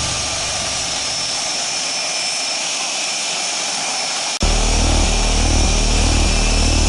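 Aircraft engine noise: a steady high rushing sound, then an abrupt cut about four seconds in to a louder, low engine drone with a slow rhythmic pulse.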